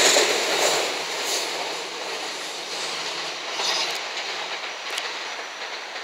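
JR West 227 series electric train running past, its wheels rumbling and clattering on the rails. The sound is loud at first and drops away from about a second in as the cars move off, then continues more quietly.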